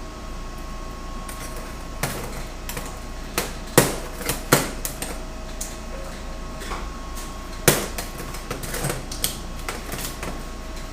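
Irregular sharp metallic knocks and clanks of tools and steel parts being handled, a dozen or so spread unevenly, the loudest a little under four seconds in and again near eight seconds, over a faint steady hum.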